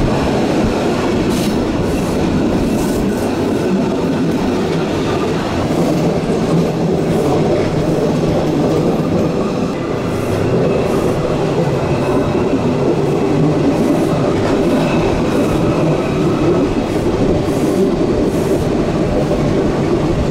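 A Bernese Oberland Railway narrow-gauge electric train running, heard from inside the carriage: a steady loud rumble of wheels on rail, with a thin high whine coming and going.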